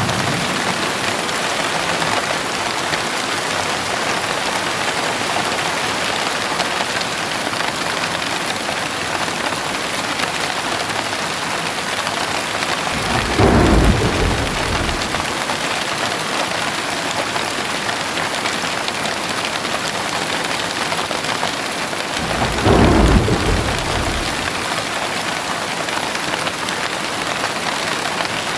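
Heavy rain falling steadily, with two low rolls of thunder, one about halfway through and another about two-thirds of the way through.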